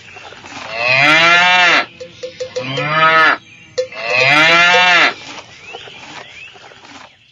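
Cow mooing three times, each moo rising and then falling in pitch; the middle moo is shorter than the other two.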